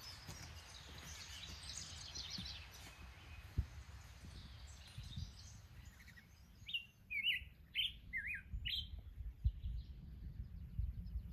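Wild songbird calling in a quick run of sharp, sliding chirps past the middle, after fainter high twittering in the first few seconds. Low rumble and a few dull thumps run underneath.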